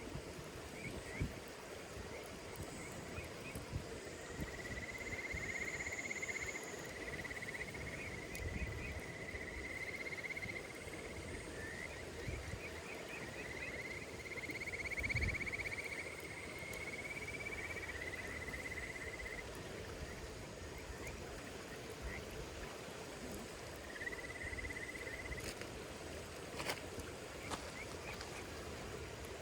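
Insects calling in steady high trills of a few seconds each, with short chirps in between, over the low crackle of a campfire; a couple of sharp pops from the fire near the end.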